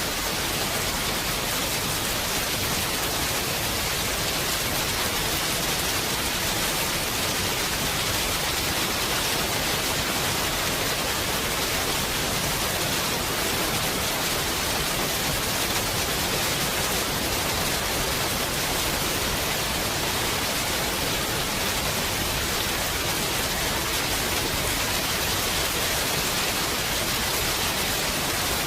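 Heavy rain falling in a steady, even hiss, with no thunder or single drops standing out.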